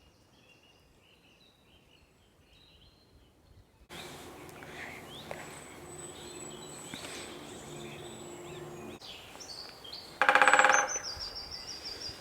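Small woodland birds chirping over a quiet outdoor background, with a faint low hum for a few seconds. About ten seconds in comes a single loud half-second burst, and near the end a short high bird phrase that steps down in pitch.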